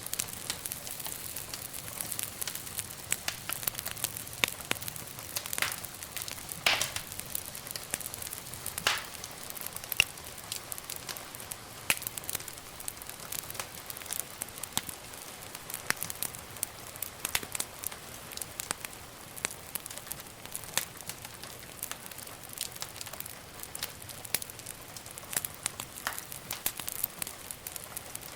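Wood fire burning in a fireplace, crackling with many small pops over a soft steady hiss, and a few louder pops, the loudest about seven seconds in.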